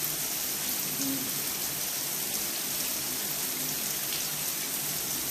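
Heavy rain falling steadily on a wet stone-paved patio and garden: an even, unbroken hiss.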